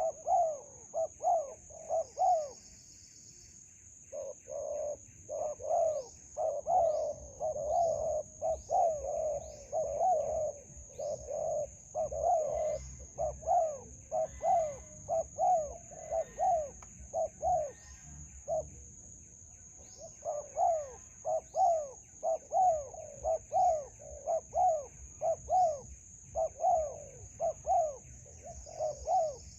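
Spotted doves cooing in quick repeated runs of notes, with a pause about two and a half seconds in. Short high chirps from small birds and a steady high-pitched whine sound behind.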